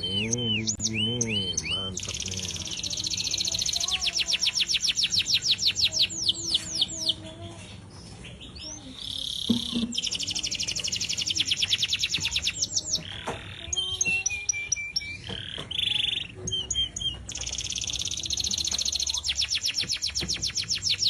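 Domestic canary singing a long, rapid song of rolling trills and fast repeated notes, with brief pauses between phrases.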